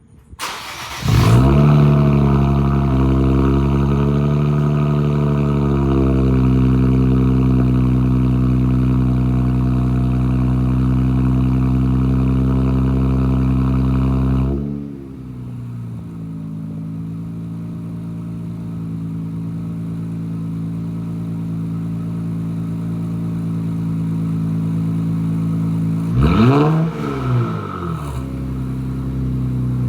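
2024 Nissan Z's twin-turbo V6 starting up through an aftermarket axle-back exhaust, running at a high idle, then dropping to a lower steady idle about halfway through. Near the end it is reved once, quickly up and back down, and settles to idle again.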